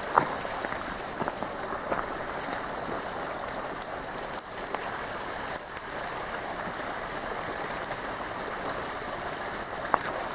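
Meltwater dripping and trickling down an icy rock cutting: a steady patter with many scattered sharper drips.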